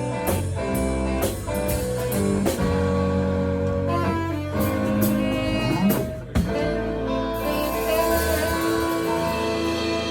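Live band playing the closing instrumental bars of a song, with held notes. The bass stops about eight seconds in while the other instruments ring on.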